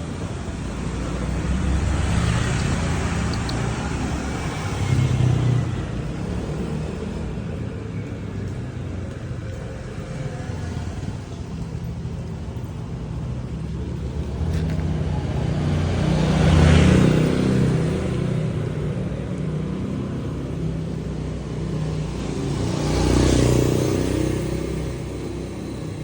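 Street traffic: a steady low rumble of engines, with vehicles passing by one after another, each swelling and fading; the loudest passes come about two-thirds of the way through and again near the end.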